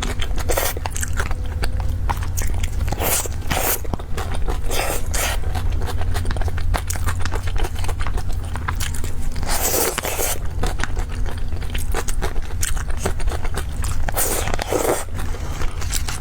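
Close-miked eating of cake: chewing, biting and wet mouth clicks, with a few louder scraping bursts, over a steady low hum.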